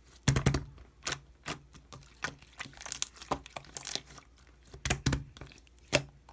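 Hands squeezing and pressing slime, making irregular sharp crackling pops and clicks, with the loudest pops just after the start and around five and six seconds in.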